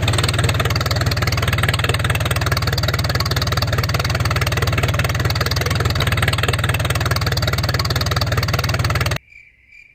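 DIY mini tractor running steadily, a dense rapid even pulsing with most of its weight low, which cuts off abruptly about nine seconds in.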